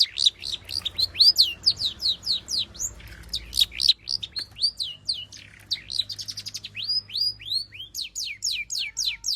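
Long-tailed shrike (cendet) singing a fast, varied song of short, high whistled notes, mostly sweeping downward at about four a second, with a quicker run of notes about six seconds in: the bird in full song, packed with mimicked phrases.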